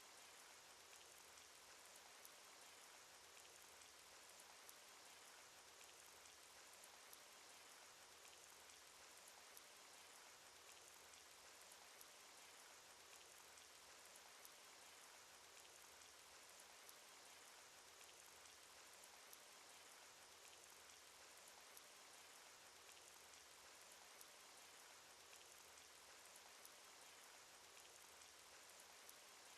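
Faint, steady rain from a cartoon rain sound effect, with small scattered drop ticks over an even hiss.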